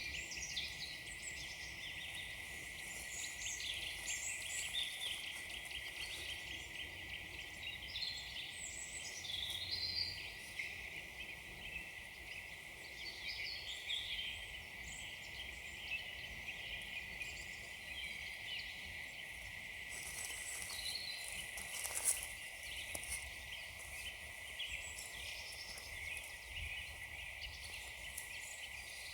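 Small woodland birds chirping and calling in scattered short notes over a steady high hiss, with one sharp click about three-quarters of the way through.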